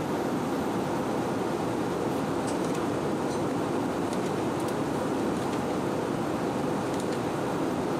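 Steady cabin noise inside an Airbus A319-131 in flight: an even, unchanging rumble and hiss of engines and airflow.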